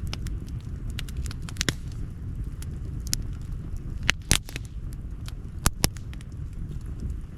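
Campfire crackling: irregular sharp pops and snaps of burning wood, a few louder cracks about four seconds in and near six seconds, over a steady low rumble.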